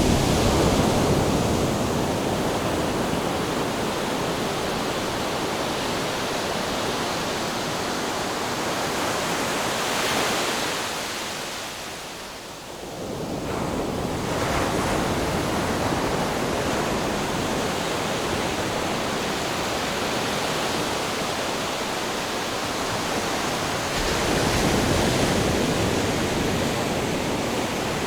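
Ocean surf: waves breaking and washing in, swelling every ten seconds or so, with a short lull about twelve seconds in.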